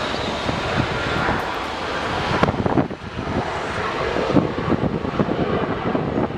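Jet noise from a Boeing 737-300's CFM56 turbofan engines, a steady rush with a faint high whine. From about three seconds in, the sound turns uneven and gusty, with wind buffeting the microphone.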